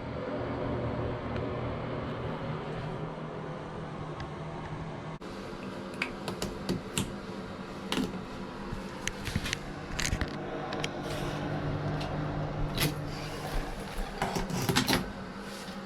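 A steady low hum, with scattered light clicks and taps starting about five seconds in and coming irregularly until the end.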